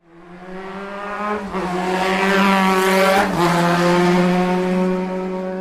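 A vehicle engine running at high, steady revs as it passes by, its pitch dropping slightly as it goes past about three seconds in.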